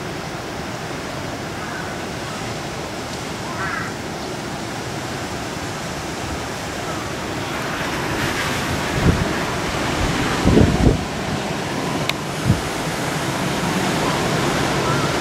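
A typhoon-swollen river rushing in flood: a steady noise of fast water. Gusts of wind buffet the microphone a few times in the second half.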